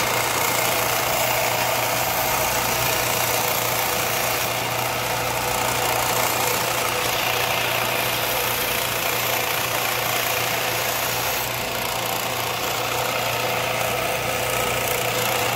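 A workshop power tool's electric motor running steadily: an even rushing noise over a constant low hum, typical of a grinder or buffer used to finish a knife blade.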